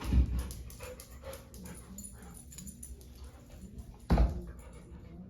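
A dog whining softly in short wavering whimpers, with two heavy low thumps, one right at the start and one about four seconds in.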